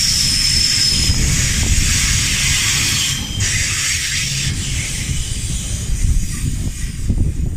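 Container freight train wagons rolling past close by: a heavy rumble of wheels on rail under a loud rushing hiss, with a brief high squeal near the start. The rush eases after about three seconds as the last wagons go by, leaving the rumble.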